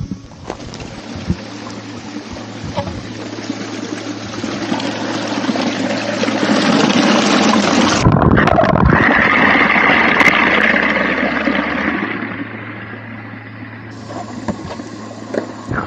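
Rushing water of a waterfall, a steady roar that grows louder to a peak in the middle and then eases off again.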